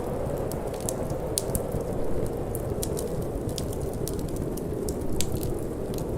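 Wood fire crackling in a fireplace, with many irregular small pops, over a steady low wind noise.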